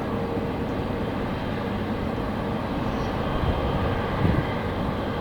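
Steady jet airliner engine noise carrying across the airport, with faint steady tones running through it. Wind buffets the microphone, with a gust about four seconds in.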